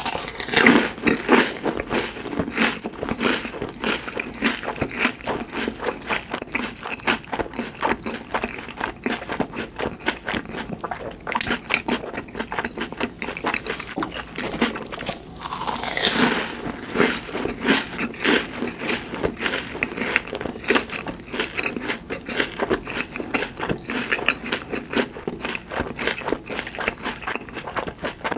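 Close-miked crunching and chewing of crispy fried food, with rapid crackling crunches throughout. There is a loud crunchy bite right at the start and another about 16 seconds in.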